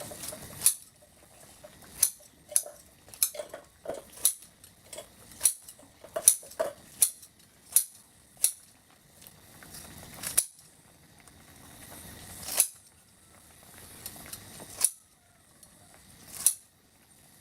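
Eating utensils clinking and scraping against dishes in irregular sharp taps, frequent at first and then only every couple of seconds.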